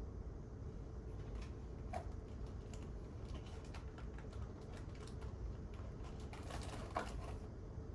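Typing on a computer keyboard: a run of irregular keystroke clicks, busiest and loudest about two thirds of the way through, over a steady low room hum.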